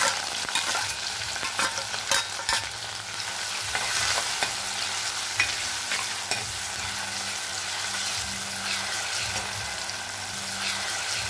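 Sliced onion, ginger, garlic and green chillies sizzling in hot oil in a chatti, stirred with a steel ladle. The ladle scrapes and clicks against the pot again and again over the steady frying hiss.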